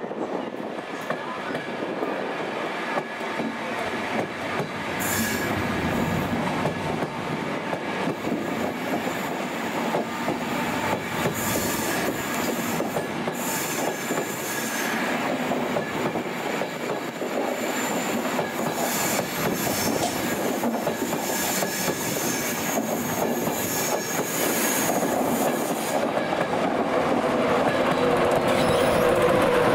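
InterCity 225 passenger train running past: steady rail noise with wheel squeal and clickety-clack as the coaches go by. Near the end a pitched hum grows louder as the Class 91 electric locomotive at the rear passes close.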